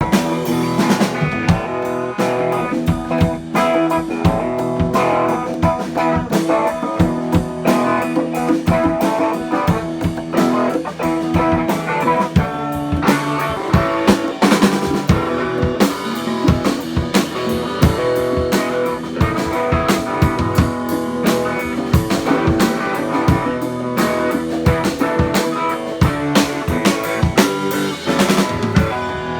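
Live band playing an instrumental jam, with electric guitar over a drum kit keeping a steady beat.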